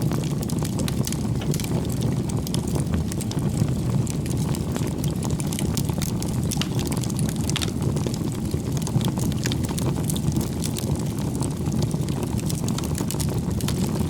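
Wood campfire burning: a steady low rush of flame with frequent small, irregular crackles and pops from the firewood.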